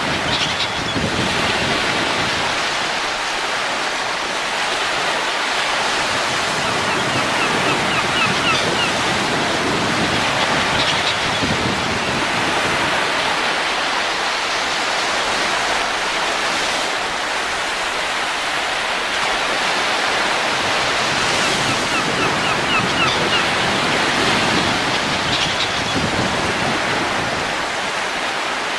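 Wind blowing in a steady rush that swells and eases gently, with no music over it.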